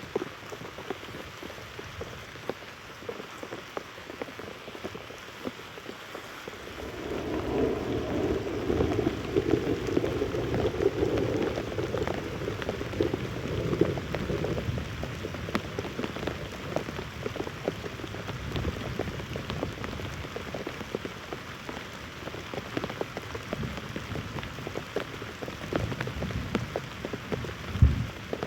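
Heavy rain pattering with many individual drop hits. About seven seconds in, a low rumble of thunder swells and fades over the next several seconds, and there is a single low thump near the end.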